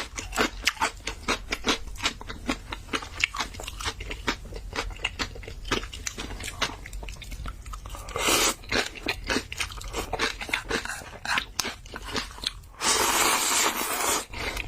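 Close-miked eating sounds: a dense run of wet chewing and crunching clicks, with a brief rushing noise about eight seconds in and a longer, louder one near the end.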